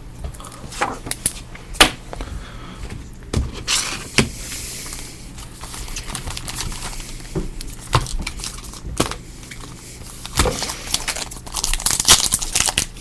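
Trading card pack wrappers being torn open and crinkled, with scattered sharp clicks and taps as the packs and cards are handled. The rustling comes in two longer stretches, one in the middle and a louder one near the end.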